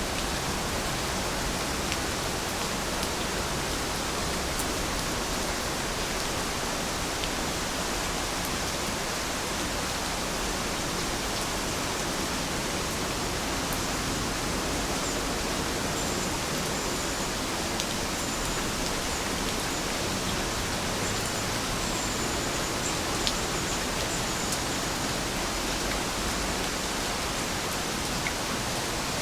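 Heavy rain falling steadily: a dense, even hiss with a few sharper drop ticks scattered through it.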